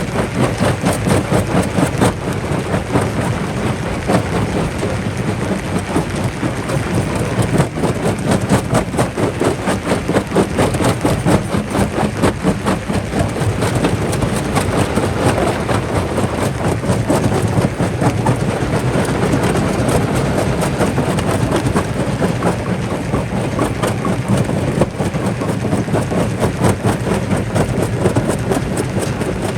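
Jaw rock crusher working: a steady heavy rumble with dense, continuous rattling and cracking of rock being broken in the jaws.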